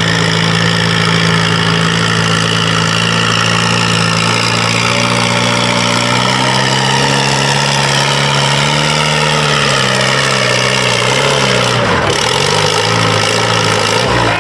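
Farm pulling tractor's engine running hard under the load of the sled. Its pitch holds, then slowly sags and wavers, dips sharply about twelve seconds in and comes back up.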